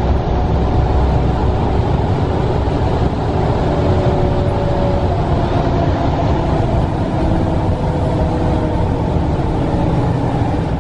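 Steady rumble and hiss of a moving passenger train, heard from inside the carriage, with faint whines running through it.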